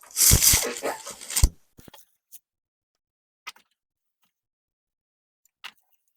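Knocking and rattling as a computer power supply unit is handled and its mains cable plugged in, lasting about a second and a half, then a few faint clicks.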